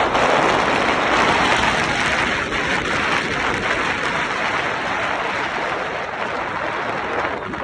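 Strong wind on the microphone: a steady rushing hiss that eases slowly.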